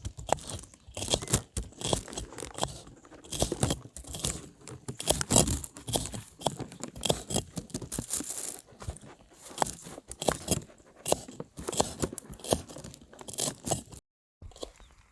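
Close-up crunching and chewing of crisp grasshoppers, a dense, irregular run of crackles and crunches, broken by a brief silence near the end.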